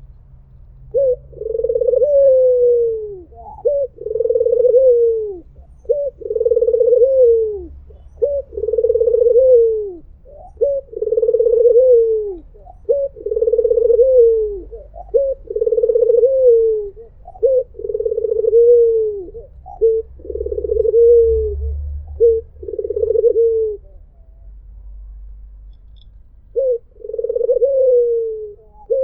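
White ringneck dove (puter putih) cooing over and over, about a dozen calls about two seconds apart. Each call is a short note followed by a longer coo that falls away at its end. The calls pause for a few seconds near the end, then start again.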